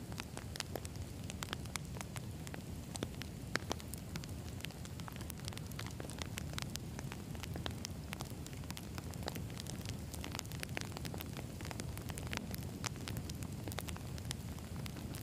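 Wood campfire burning: a steady low rumble of flames with frequent small crackles and pops from the burning logs.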